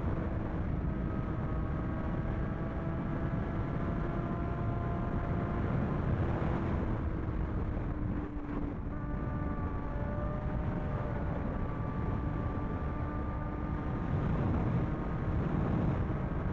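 Sport motorcycle engine running at a steady cruise, its tone holding with a short dip about halfway through, under a heavy rush of wind and road noise.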